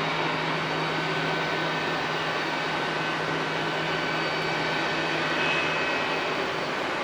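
Jet aircraft engines running: a steady rush with a thin, steady high whine.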